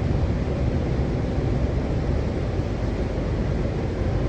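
Steady low rumble and rush of a Washington Metro Silver Line train running along the track, heard from inside the railcar.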